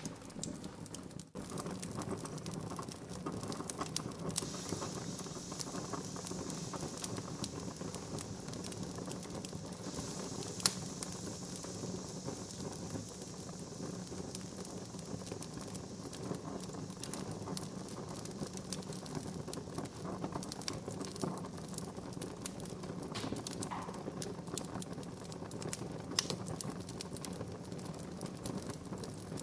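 Wood fire crackling steadily, with frequent small pops and one sharper, louder pop about ten seconds in, over a soft hiss.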